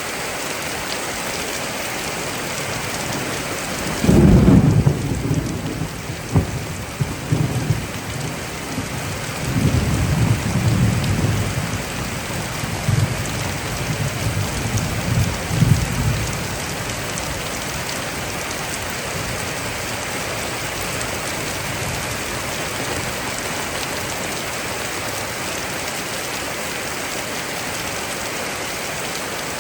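Heavy, steady rain pouring down in a thunderstorm. About four seconds in a thunderclap breaks suddenly and rolls on as rumbling thunder with several louder peaks for about twelve seconds before fading back under the rain.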